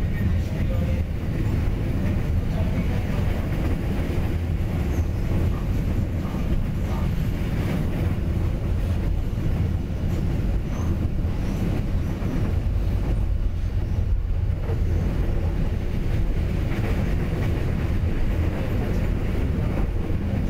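Passenger train running along the track, heard from inside a carriage: a steady low rumble of wheels on rails.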